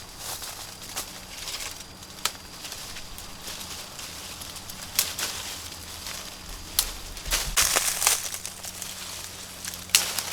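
Leaves and branches rustling, with sharp snaps and cracks every couple of seconds and a louder stretch of rustling about three quarters of the way through.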